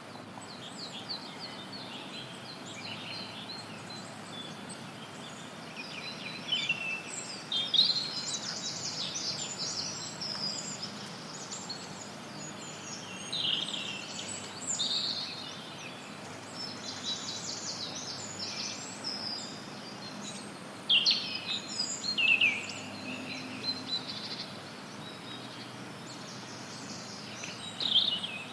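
Several forest birds chirping and singing in short, repeated phrases over a steady hiss of added background noise. The louder bursts of song come about eight seconds in, around fourteen seconds, twice near twenty-two seconds, and near the end.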